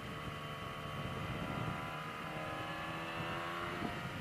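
Yamaha R6 inline-four sport bike engine running at steady cruising speed, its note easing slowly lower, over wind and road rumble.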